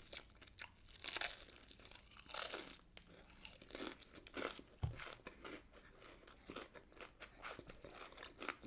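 Crispy fried chicken being bitten and chewed, a run of small crunches and crackles with a few louder bites spread through.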